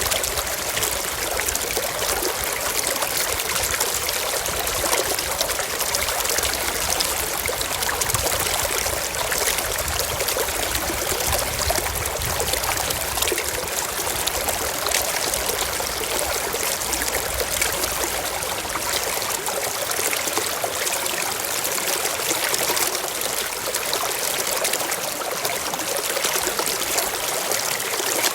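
A shallow forest stream flowing and trickling over stones, a steady even rush of water.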